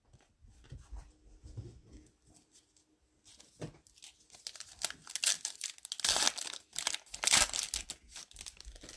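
Plastic wrapper of a pack of football trading cards being torn open and crinkled, soft handling at first, then a run of loud crackling tears in the second half.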